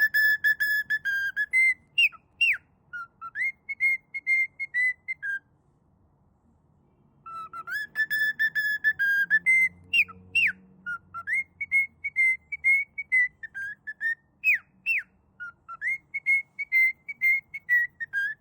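A parrot whistling a tune: held notes, quick runs of short repeated notes and sharp swooping notes, with a pause of about two seconds in the middle.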